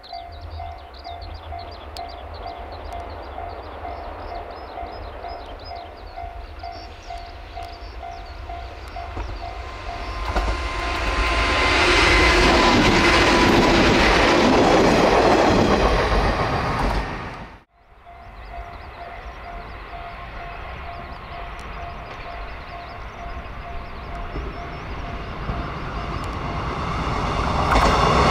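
Japanese level-crossing warning bell ringing in a steady repeating rhythm while a JR Kyushu 103 series 1500 electric train approaches, then the train passing close by with a loud rush of motor noise and wheels clattering over the rail joints. It cuts off suddenly about 17 seconds in, then the crossing bell rings again and the train noise builds once more near the end.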